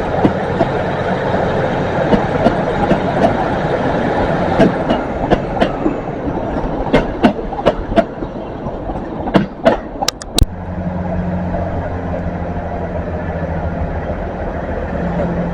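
Train wheels rolling along the rails past the platform, with sharp clicks as the bogies cross rail joints. The clicks come in uneven groups and bunch closer together and louder near the end. About ten seconds in the rolling noise cuts off suddenly and a steady low engine hum continues.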